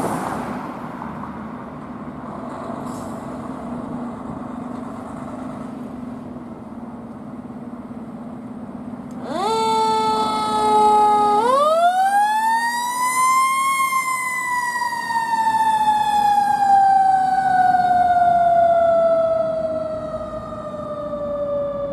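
Fire truck engine running, then a mechanical siren winding up about nine seconds in. Its wail climbs twice to a peak and then coasts slowly down in pitch.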